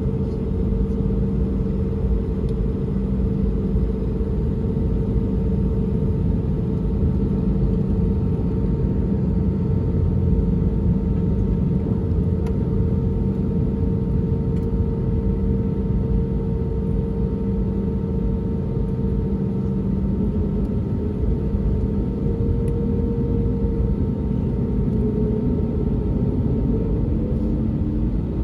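Cabin rumble of an Airbus A320neo with its CFM LEAP-1A engines running, heard from inside the cabin: a steady low drone with two steady engine tones, whose pitch shifts and glides a little near the end.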